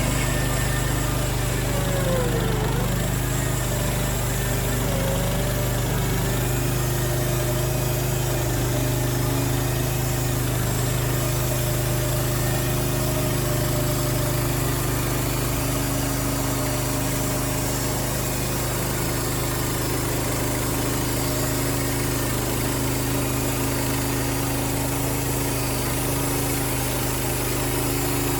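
Wood-Mizer LX55 portable sawmill's 14 hp engine running steadily at an even speed, with a brief wavering tone a couple of seconds in.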